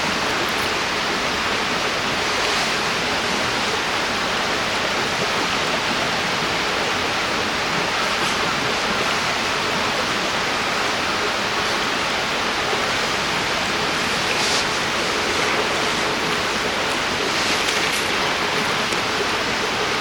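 River water rushing steadily over its bed.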